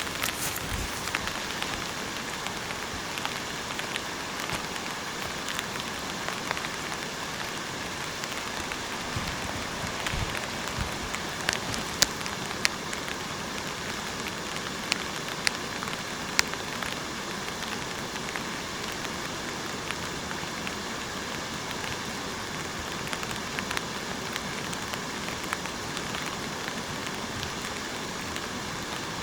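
Steady rain falling, an even hiss with scattered sharper drop hits, a few louder ones in the middle.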